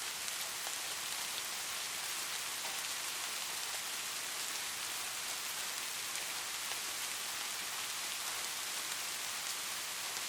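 Light rain falling steadily, a fine even hiss with many small drops pattering on a surface.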